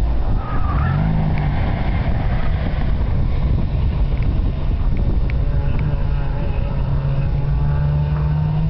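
Car engine on an autocross course, its pitch rising about a second in and then shifting with the throttle as the car works through the cones, with wind rumbling on the microphone.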